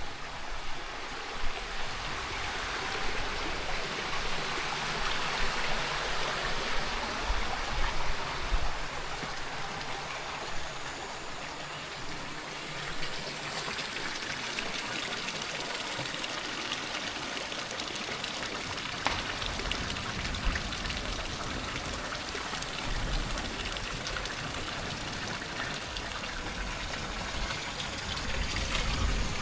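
Water running steadily in a stream, a continuous rushing trickle that swells a little in the first third.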